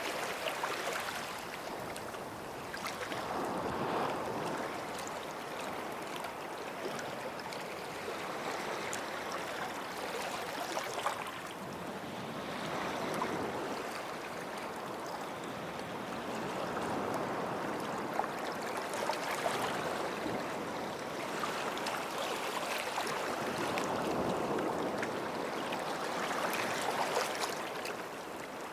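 Sea waves washing in at the water's edge, each wash swelling and easing every four to five seconds.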